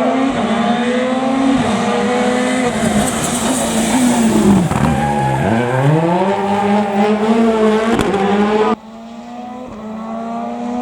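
Rally car engine at full throttle, revs climbing, then falling steeply about halfway through as the car slows for a bend before pulling hard again. Near the end the sound cuts off suddenly to a quieter car accelerating.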